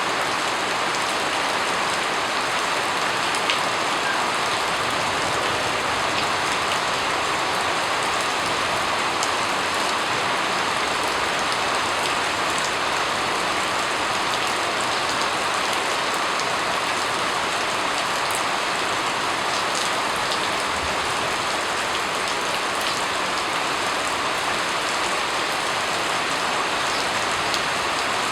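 Steady rain falling on a surface, a dense even patter of drops with a few scattered louder drop ticks.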